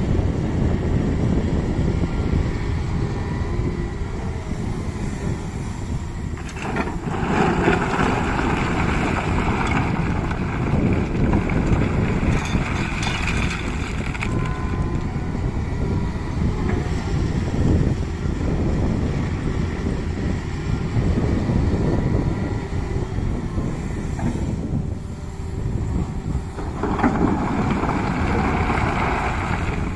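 Tata Hitachi excavator's diesel engine running with a heavy, continuous rumble as it digs and loads mud. Twice a harder-working mid-range note swells up for several seconds, about a quarter of the way in and again near the end, as the machine comes under load.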